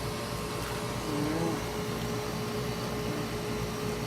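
Steady machine hum with a constant mid-pitched tone and a low rumble underneath. A brief faint voice comes in about a second in.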